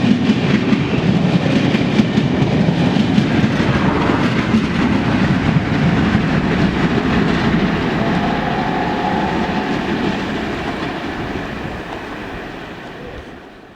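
Train running on the rails, its wheels clattering steadily over the track, the sound dying away over the last few seconds.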